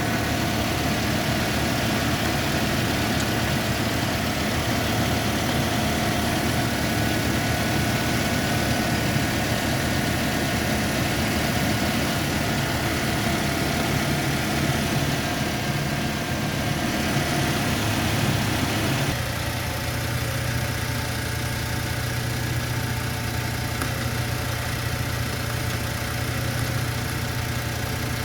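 Car engine idling steadily. About two-thirds of the way through the sound shifts: the higher hum drops away and a deeper hum comes forward.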